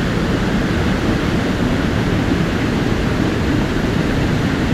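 Steady rush of a mountain stream's water, an even, unbroken noise heaviest in the low range.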